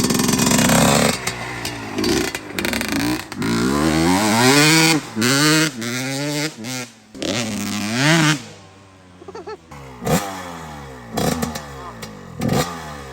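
125 cc two-stroke dirt bike engine revving up and down as the rider opens and closes the throttle, climbing in pitch several times. It goes quieter in the second half, with short blips of throttle.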